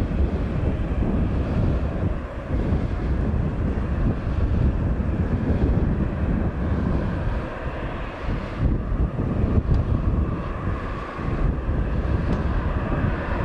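Jet airliner engines running at low power, a steady rumble, with wind buffeting the microphone.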